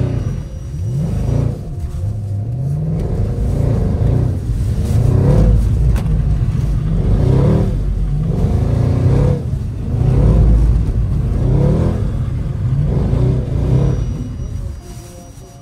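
Mercedes C 63 AMG V8 engine revving hard and falling back over and over, its pitch rising in repeated sweeps, as the car is driven sideways on the throttle in drift practice. The engine sound drops away near the end.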